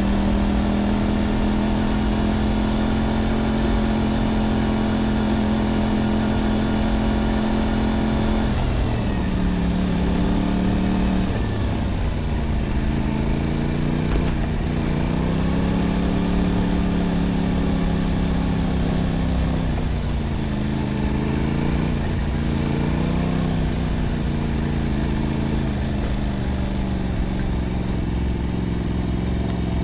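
Motorcycle engine under way. It holds a steady pitch for about eight seconds, drops sharply, then rises and falls several times as the throttle changes.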